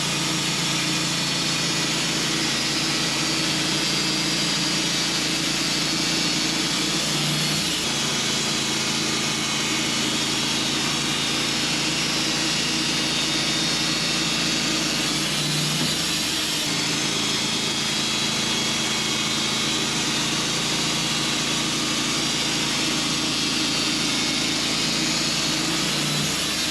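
Sawmill running and sawing through a hemlock log: a steady engine hum under a dense hiss from the blade cutting, the engine note shifting briefly a couple of times.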